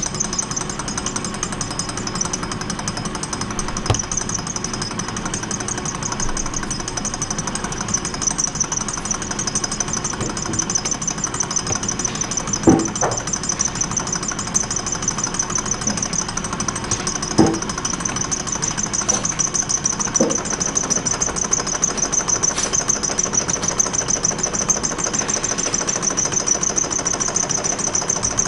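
Small standing-wave thermoacoustic engine running steadily, a fast even mechanical rattle, with a few louder knocks along the way.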